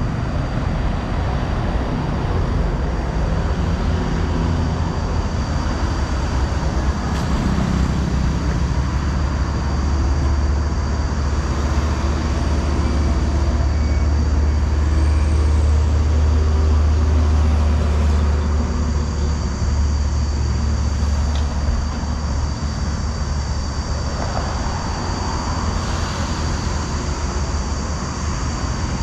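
Heavy container truck's diesel engine running with a deep, steady rumble over road noise, swelling to its loudest around the middle and easing off after.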